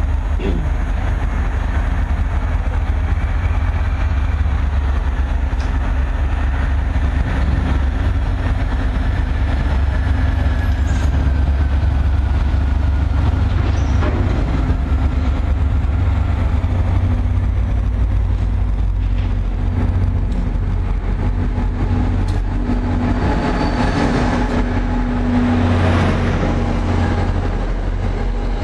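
NJ Transit diesel-hauled commuter train approaching with a steady low rumble, then its coaches passing close by with wheel-on-rail noise that swells a few seconds before the end.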